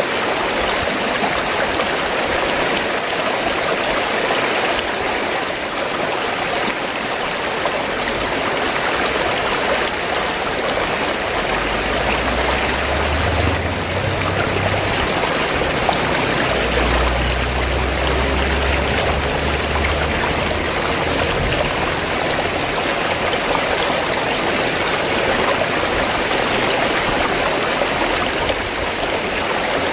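Fast-flowing stream water gurgling and rushing steadily. A low rumble swells under it for several seconds midway.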